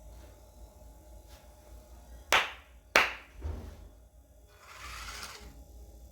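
Two sharp knocks about two-thirds of a second apart, followed a couple of seconds later by a short rustling hiss.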